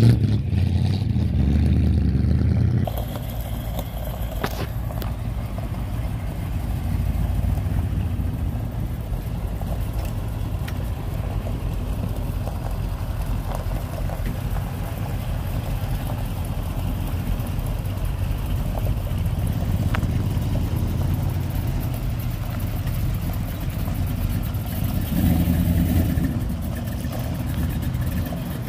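Classic cars' engines rumbling low as the cars drive slowly past one after another. The engine sound is loudest for the first few seconds, drops suddenly, and swells again briefly near the end.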